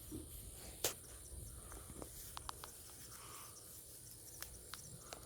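Quiet outdoor summer ambience: a faint steady high-pitched insect drone, with a few faint scattered clicks.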